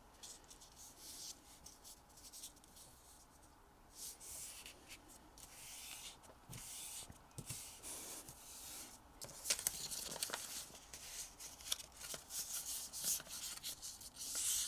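A sheet of origami paper being handled, folded and creased by hand: soft rubbing and rustling swipes, turning into sharper crinkles and crackles in the second half.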